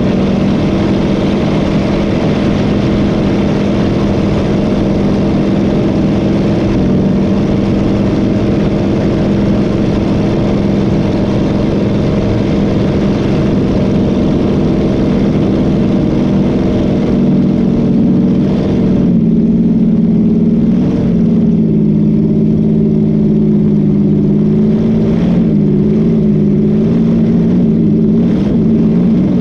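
Boat engine running steadily at speed, with a rushing hiss over it. About two-thirds of the way through the engine note drops and then rises and falls a little as the throttle changes.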